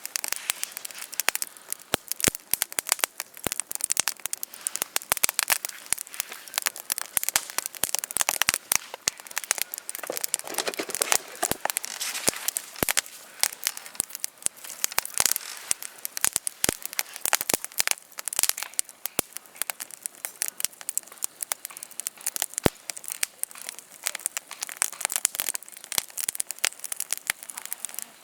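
Campfire of burning wood crackling: a dense run of irregular sharp snaps.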